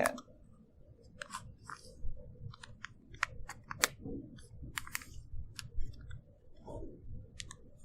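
A sheet of paper being folded and creased by hand: irregular crisp crackles and rustles as the fold is pressed down.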